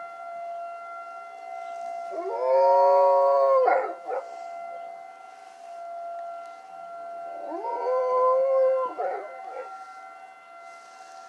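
A dog howling along with a tornado siren: two long howls, each rising and then held for about a second and a half, the first about two seconds in and the second about seven and a half seconds in. Beneath them the siren sounds a steady tone.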